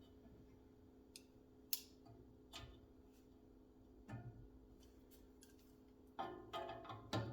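Faint, scattered clicks and taps of the metal box-fan blade and its screw-and-nut hardware being handled and fitted, over a steady low hum. Near the end comes a short run of ringing metallic clinks, the loudest sound.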